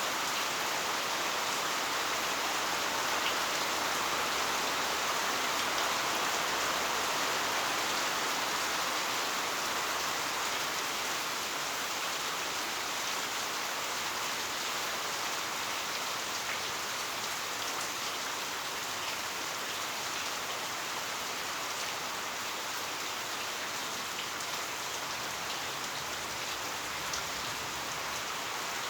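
Heavy rain falling steadily, a dense hiss of drops on surfaces, easing slightly after the first several seconds.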